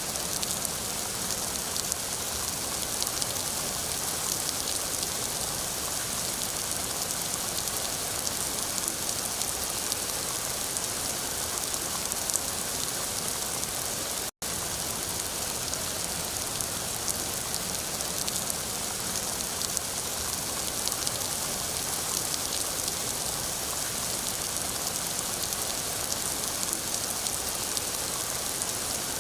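Steady rain falling: a dense, even hiss of drops with many small ticks of individual drops. A split-second gap of silence breaks it about halfway through.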